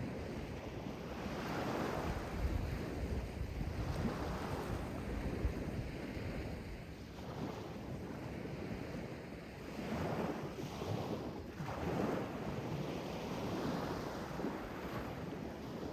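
Sea waves washing in, the noise swelling and falling back every few seconds, with a few louder surges.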